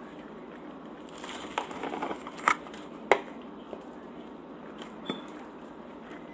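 Close-miked eating sounds of a person chewing Salvadoran cheese tortas, with a few short sharp mouth clicks, the loudest about two and a half and three seconds in, over a steady hiss.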